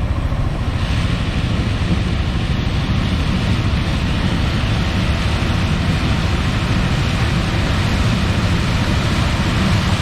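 Claas Lexion 740 combine harvester running in the field: a steady heavy rumble with a broad hiss that swells about a second in and then holds.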